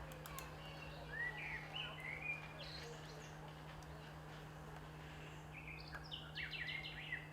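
Birds chirping: a few short rising chirps about a second in, then a quick run of high notes near the end, over a steady low hum.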